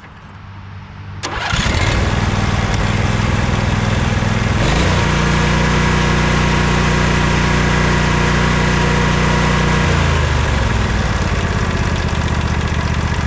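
Sabre by John Deere lawn tractor's twin-cylinder engine cranks briefly and catches about a second and a half in, then runs steadily. It speeds up to a higher steady speed around five seconds in and drops back to a lower speed near ten seconds, running smoothly now that its fuel clog is cleared.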